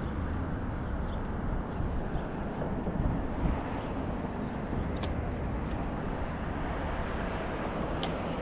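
Steady outdoor road noise, with two short sharp clicks about five and eight seconds in.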